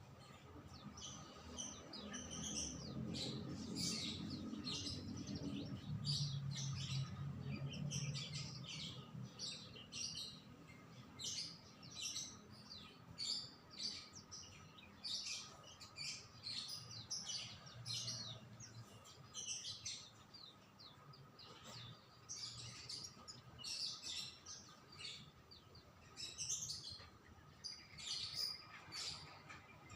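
Songbird chirping in quick, short, high calls over and over. A low hum runs underneath for the first several seconds.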